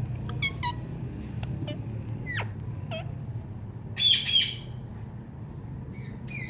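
Female Indian ringneck parakeet chirping: short chirps that sweep down in pitch, spaced a second or so apart, then two loud harsh squawks close together about four seconds in, and a few more short calls near the end.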